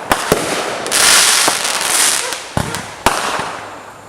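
Fireworks going off: several sharp bangs, with a loud crackling hiss in the middle lasting about a second and a half.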